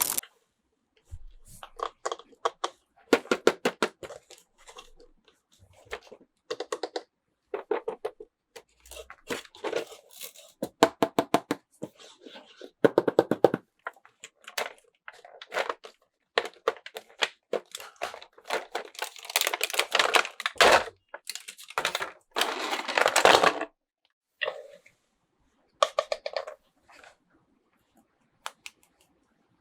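Hands unwrapping and handling plastic toy packaging and small plastic figures: a broken string of clicks, taps and crinkles, with a longer stretch of crinkling about two-thirds of the way through.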